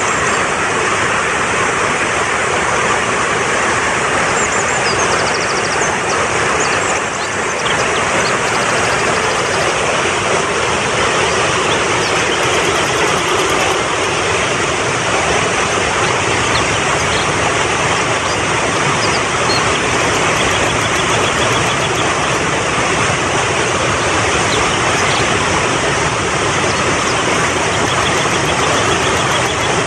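Fast-flowing mountain stream rushing steadily, with faint high-pitched chirping trills coming and going over it.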